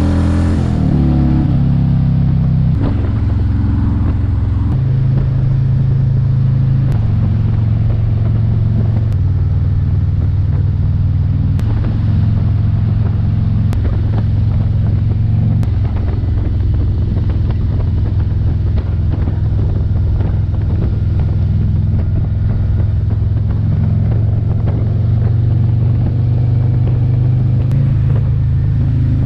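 2024 Harley-Davidson Road Glide's Milwaukee-Eight 117 V-twin engine running while the bike is ridden on the road. The engine pitch drops about a second in, as at a gear change, then holds steady at cruising speed with small shifts in engine speed.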